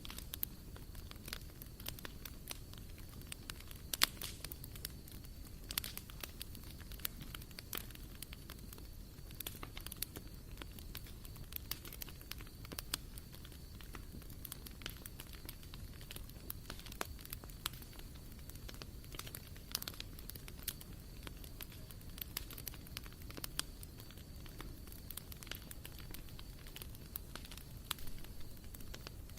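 Small wood fire burning in a barbecue stove, crackling with irregular sharp pops over a low steady hiss.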